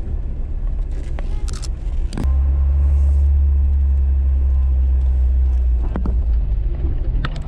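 Jeep TJ engine and road noise heard from inside the cab while driving: a low drone that grows louder and steadier about two seconds in and eases back near the end, with a few sharp clicks.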